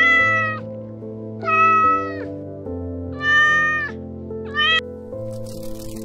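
Domestic cat meowing four times, the last call short, over steady background music.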